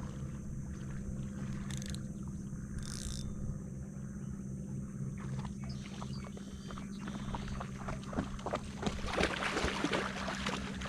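A boat's outboard motor running steadily with a low, even drone. Over the last few seconds irregular water splashing and sloshing builds up, from a dog wading in the shallows.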